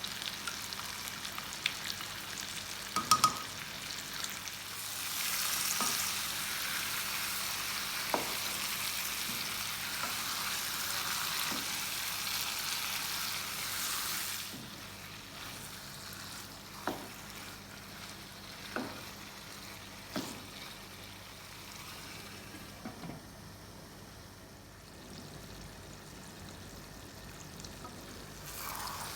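Food sizzling in hot oil in a cooking pot while being stirred, with the spoon knocking against the pot now and then. The sizzle is loudest for about ten seconds near the start, then dies down to a quieter fry.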